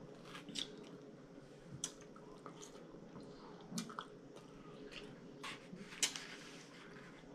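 Close-up wet chewing and lip smacking of a mouthful of soft cooked food such as collard greens, with irregular small smacks and clicks and one louder smack about six seconds in.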